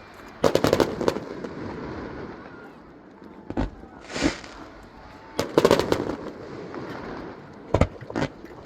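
Fireworks going off: a cluster of sharp bangs and crackles about half a second in and another around five and a half seconds, with single loud bangs between them and a few more near the end.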